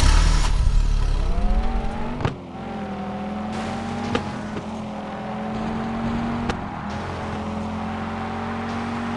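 Cartoon race-car engine sound effect: a loud low rumble that revs up in pitch about a second and a half in, then runs at a steady pitch, with a few sharp clicks along the way.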